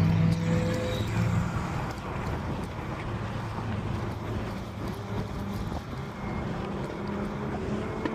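A car engine running steadily at a low, even speed, a little louder in the first second.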